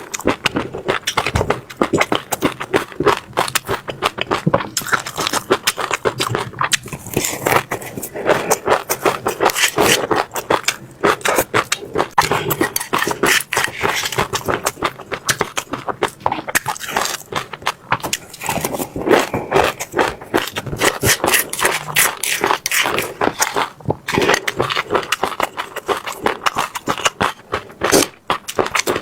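Close-up chewing of crunchy seeds, a dense, unbroken run of crisp cracks and crunches as they are bitten and ground between the teeth.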